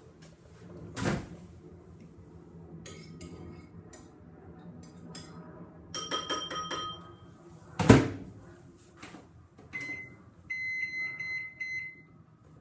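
Microwave oven running with a steady low hum, with a click about a second in and short keypad beeps around the middle. A loud clunk, the loudest sound, comes at about eight seconds and the hum stops. Near the end comes a run of short, even beeps.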